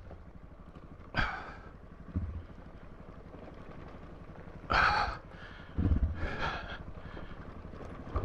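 Dual-sport motorcycle running with a low, uneven rumble over a rutted dirt track, while the rider gasps and breathes out hard a few times.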